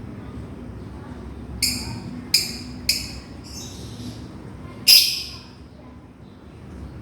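Lovebird giving sharp, high-pitched contact calls, calling to its companion: five short shrieks in the first five seconds, the last and loudest about five seconds in.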